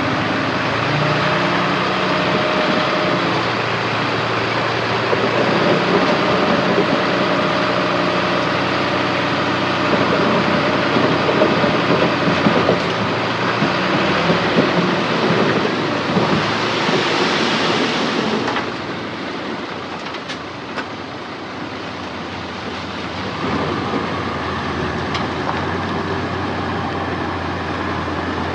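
Heavy diesel earthmoving machinery working: engines running steadily under a loud rushing, grinding noise that drops away about two-thirds of the way through, leaving a quieter steady engine with a few light knocks.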